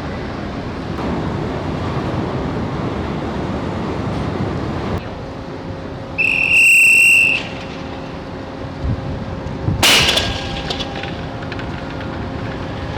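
Steady wind and ship noise on a ferry deck, broken about six seconds in by one loud, high-pitched whistle blast lasting just over a second, then a single sharp bang a few seconds later.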